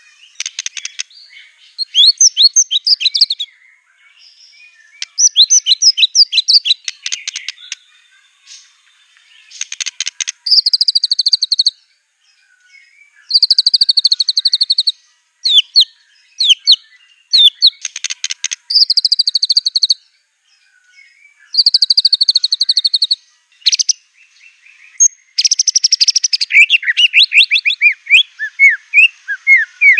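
White-rumped shama singing a loud, varied song in phrases of one to two seconds with short pauses between: rapid trills, chattering runs and high whistled notes, including mimicked calls of other songbirds.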